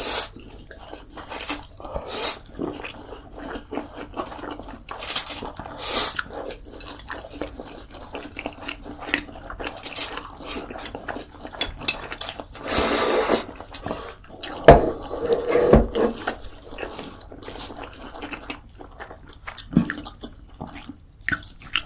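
Close-up eating sounds: wet chewing and mouth noises with many irregular small clicks and a few louder bursts.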